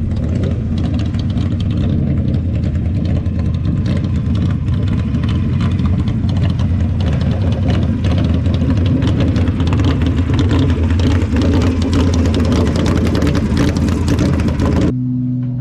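A vehicle engine running steadily at an even speed, neither revving up nor dropping. Near the end it cuts abruptly to a quieter, steady hum.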